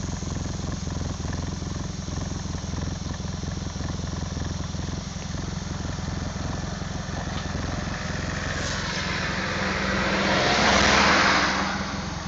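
Audi A1 1.2 TFSI turbocharged four-cylinder petrol engine idling steadily through its exhaust, a low, even hum. About nine seconds in, a louder rushing sound swells and fades over roughly three seconds.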